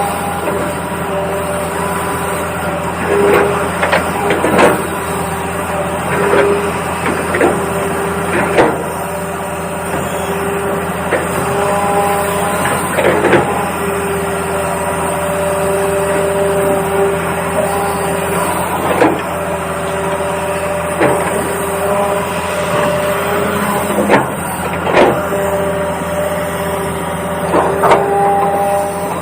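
Small electric motors of RC toy construction models whining steadily, the pitch stepping as different motors start and stop, with scattered clicks and knocks of the toys working in dirt.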